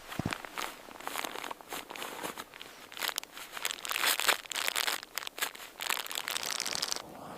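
Irregular crunching and crinkling, many quick crackles in a dense run that stops about seven seconds in.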